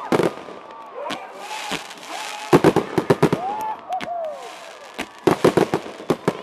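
Aerial fireworks bursting in three rapid volleys of sharp bangs and crackle: one at the start, one about halfway and one near the end. A few gliding tones sound in the lull between the volleys.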